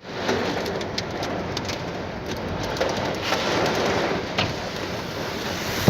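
Rain falling steadily, a constant hiss with frequent sharp ticks of single drops striking a surface.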